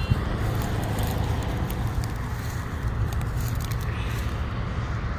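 Wind buffeting the microphone: a steady low rumble with a few light handling clicks.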